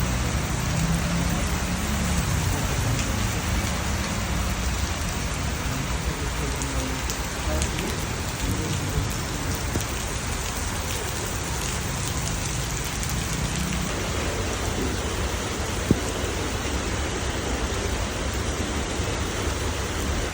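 Steady rain falling, with one sharp knock about 16 seconds in.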